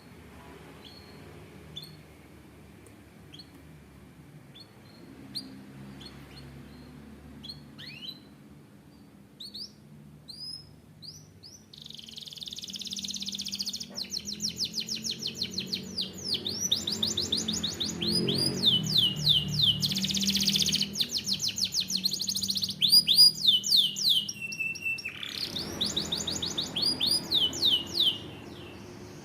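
Domestic canary singing: a few scattered short chirps, then from about the middle a long loud song of fast rolling trills and rapid repeated notes, which stops shortly before the end.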